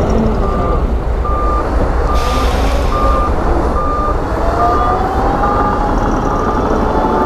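A heavy construction vehicle's reversing alarm beeping steadily, about one beep every three-quarters of a second, over the low rumble of a diesel engine. A short hiss comes a little over two seconds in, and a whine rises slowly in the second half.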